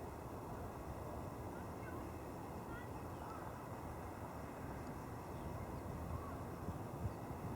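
Steady low outdoor rumble, with a few faint short bird chirps about two to three seconds in.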